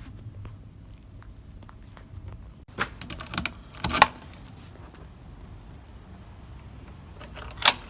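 A cluster of sharp metallic clicks and knocks, then another sharp click near the end, as a door's lock and keys are worked by someone coming home.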